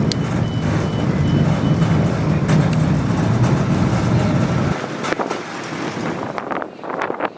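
A vehicle engine running with a low rumble, with a reversing beeper sounding in short repeated beeps for the first couple of seconds. The engine sound drops away about five seconds in, leaving gusts of wind buffeting the microphone.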